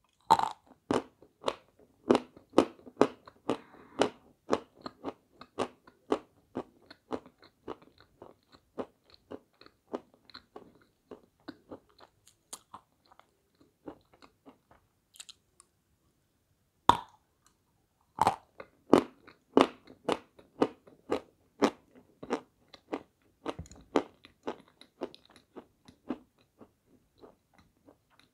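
Crunching and chewing of a crunchy white Shedevr sweet: quick crunches at first that soften into chewing, a pause of a few seconds past the middle, then a loud bite and more crunching.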